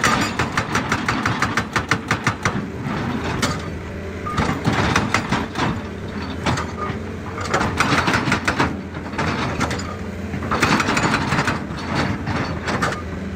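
Excavator diesel engine running steadily, with several bursts of rapid clattering and scraping as the bucket works against rock and stones.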